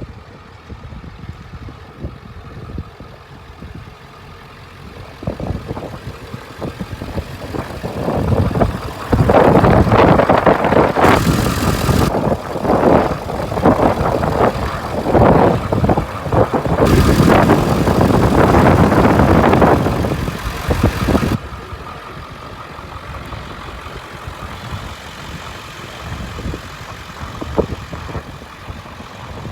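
Diesel engine of a 2003 Ford E450 box truck running on a jump start, its battery too weak to start it alone. It gets much louder and rougher for about twelve seconds in the middle, then settles back to a steady idle.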